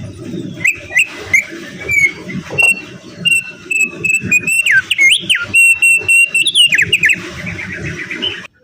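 Opior songbird singing a fast run of whistled notes and chirps, with quick up-and-down swooping notes and a held whistle, over a low rumbling background noise. Everything cuts off abruptly near the end.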